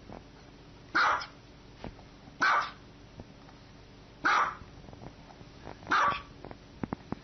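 A dog barking, four single loud barks about one and a half to two seconds apart, with a few light clicks near the end.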